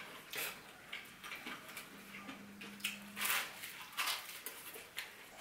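Mouth sounds of someone eating bread: soft chewing and scattered small clicks, with a short low hum about two seconds in.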